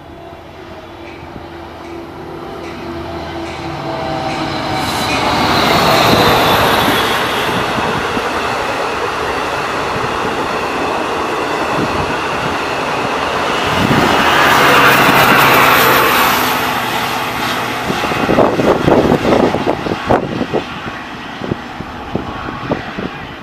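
Long Island Rail Road diesel locomotive and bi-level coaches passing close by. The noise builds over about six seconds into a long steady rumble of engine and wheels, with a high tone sliding down in pitch as the train goes by. Near the end comes a quick series of wheel clicks over rail joints.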